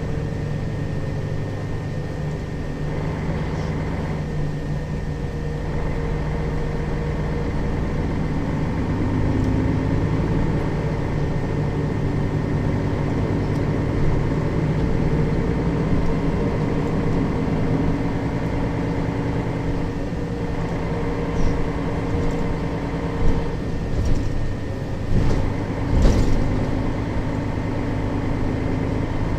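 Mercedes-Benz Citaro facelift city bus on the move, its engine running steadily with the pitch rising and falling as the bus changes speed. Several sharp knocks come near the end.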